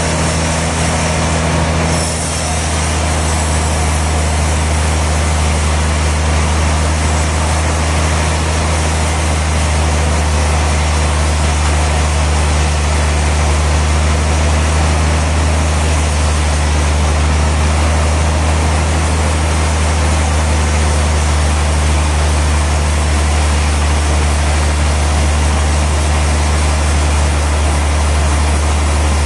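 Sawmill machinery running steadily with a loud, constant low hum and a broad rushing noise. A higher hiss drops out about two seconds in.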